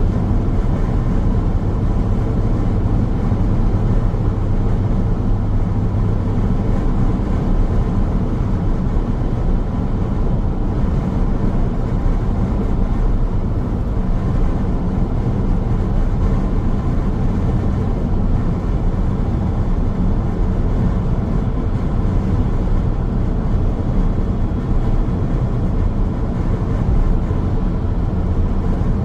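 Car travelling on a road: steady road noise of engine hum and tyre rumble.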